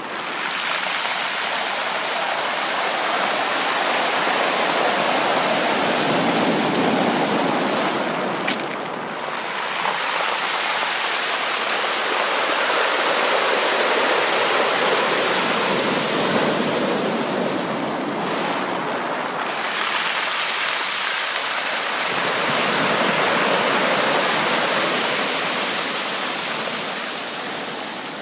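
Ocean surf breaking and washing up a beach, a continuous rush of water that swells and ebbs in slow waves about every eight to ten seconds.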